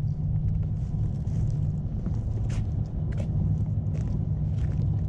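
A steady low engine hum from a motor running nearby, with faint footstep clicks over it.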